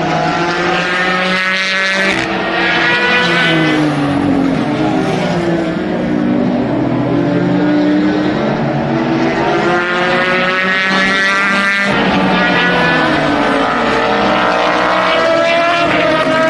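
Endurance race cars running at speed past the track, several engines overlapping with their pitch sliding up and down through gear changes. The sound changes suddenly about two seconds in and again after about twelve seconds.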